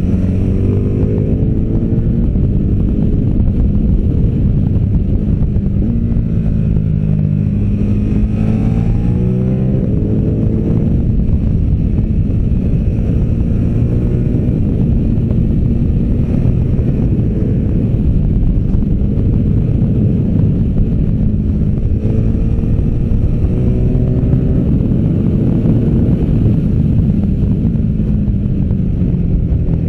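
V-twin adventure motorcycle engine under way at speed, its revs climbing and dropping several times as the rider accelerates and backs off, over a steady rush of wind and road noise.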